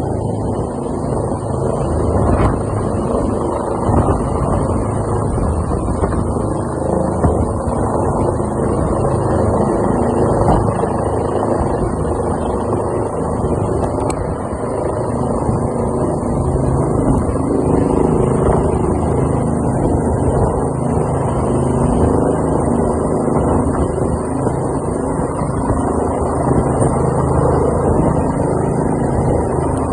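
Helicopter running steadily: a constant, loud engine and rotor noise with a thin, steady high whine above it.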